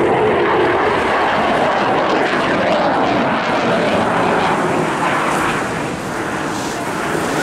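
Eurofighter Typhoon FGR4 fast jet's twin EJ200 turbofan engines, a loud steady rush of jet noise as it flies its display, easing slightly near the end.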